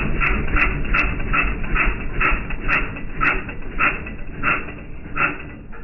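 A dog panting, about two to three breaths a second, with a few light clicks.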